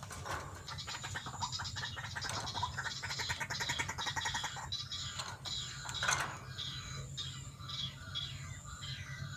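White-breasted waterhen calls: fast runs of rapidly repeated notes, coming in short phrases over and over, with a steady low hum underneath.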